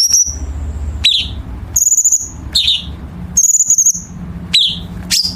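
Cucak cungkok singing a run of short, sharp high calls, about one a second, many of them sweeping quickly downward, over a steady low hum.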